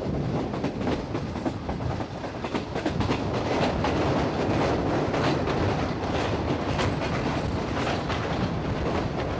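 Passenger train running at speed, heard from the carriage window: a steady rumble with the wheels clicking over the rail joints. It grows louder about three seconds in as the train runs onto a steel truss bridge.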